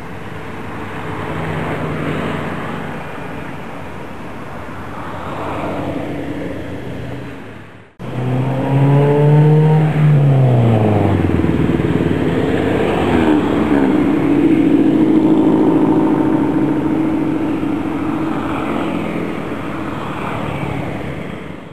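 Motor vehicle traffic. After a sudden break about eight seconds in, an engine sound falls in pitch, then settles into a steady engine drone.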